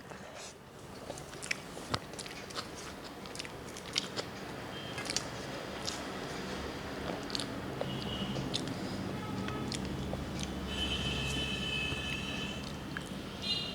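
A person chewing and biting food close to the microphone, with small crunches and scattered clicks of mouth and fingers. A faint low rumble and a thin high tone come in during the second half.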